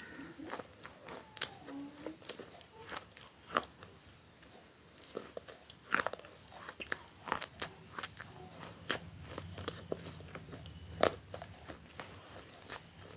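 Close-miked eating of crunchy food: bites and chewing with many sharp crunches at irregular intervals.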